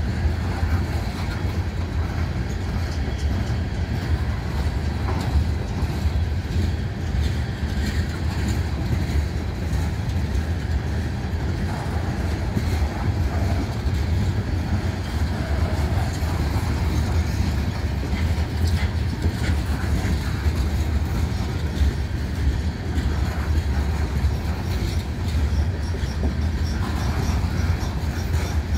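Covered hopper cars of a freight train rolling past, a steady rumble of steel wheels on the rails.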